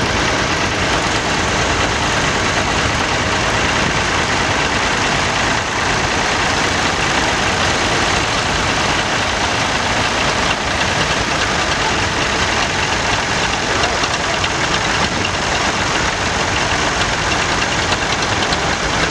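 Tractor engine running steadily, a loud continuous rumble with a fast, even pulse.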